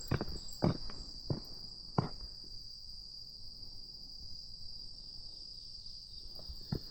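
Footsteps on an outdoor path over a steady high chirring of insects. There are four steps in the first two seconds, then a pause with only the insects, then a couple of steps near the end.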